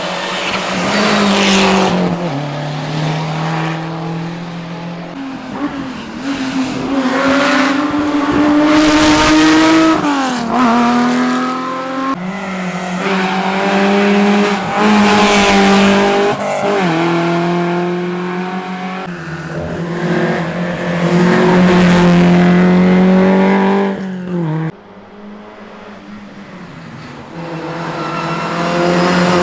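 Historic rally car engines revving hard and passing at speed, the pitch climbing through each gear and dropping sharply at the shifts and lifts. The sound falls away briefly about 25 seconds in, then another car's engine rises toward the end.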